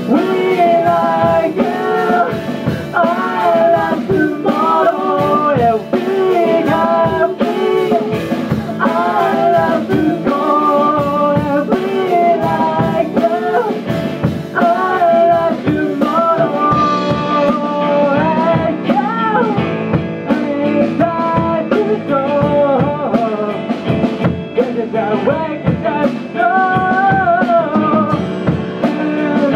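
Rock band playing, with a singer improvising a melody without set lyrics over guitar and drums.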